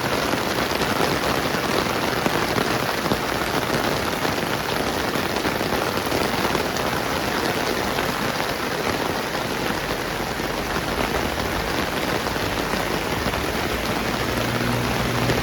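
Steady rain falling, an even hiss of drops with no break. Near the end, a low engine hum starts to come in.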